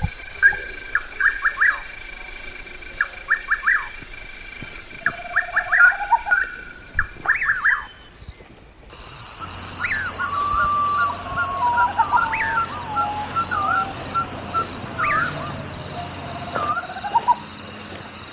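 Night-time wildlife chorus: a steady high insect trill with many short, sharp chirps, and later wavering whistled calls. About eight seconds in the sound briefly drops away and returns with a lower, stronger insect tone.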